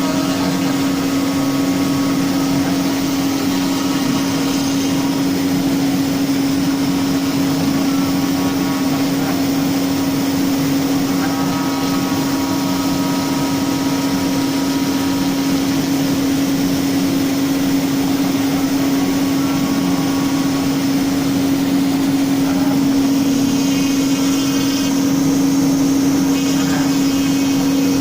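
CNC router spindle running steadily with a constant, even hum.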